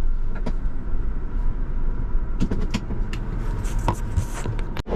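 Off-road vehicle's engine running at low speed, a steady low rumble, with a few short clicks and knocks from about two and a half seconds in.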